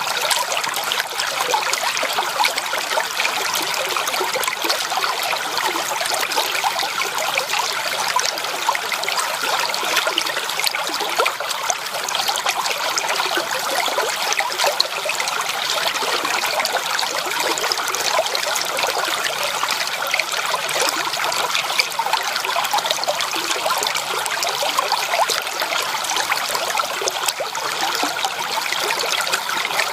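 Creek water trickling and babbling steadily over stones, an even splashing with many small bright flickers.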